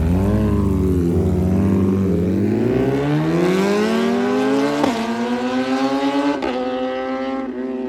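Inline-four superbike engine heard from the bike, accelerating: the pitch dips, climbs steadily under throttle, breaks briefly at upshifts about five and six and a half seconds in, then holds at a steady cruise.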